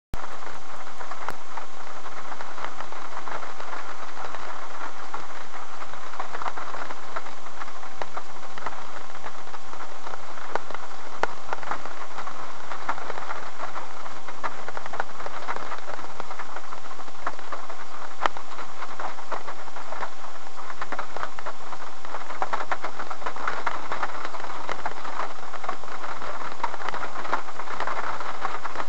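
Scattered raindrops ticking on a car's windshield and body, heard from inside the car over a steady hiss from the dashcam's microphone. The ticks come a little thicker toward the end as the rain starts.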